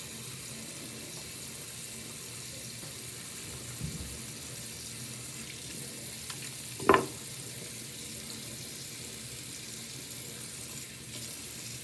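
Water running steadily from a tap, a constant hiss, with one sharp knock about seven seconds in.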